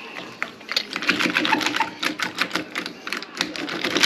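Cordless drill working on door-knob screws, with a fast, uneven run of mechanical clicks over the motor's hum.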